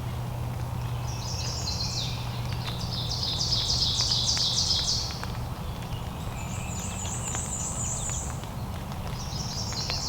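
Songbirds singing: rapid trilled phrases of repeated high notes. The loudest phrase comes between about one and five seconds in, a higher one follows, and another starts near the end, over a steady low background rumble.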